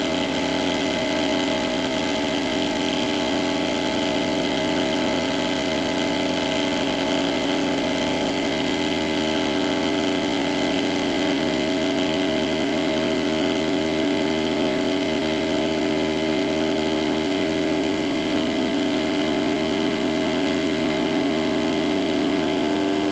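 Precision Matthews PM-25MV benchtop milling machine running steadily with its spindle turning, making a pass across an aluminum block. A steady, even machine hum with several constant tones.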